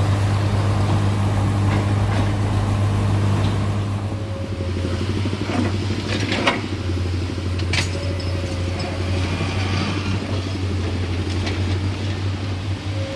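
Heavy diesel engine running steadily with a low drone, with a few sharp metallic knocks about six and eight seconds in.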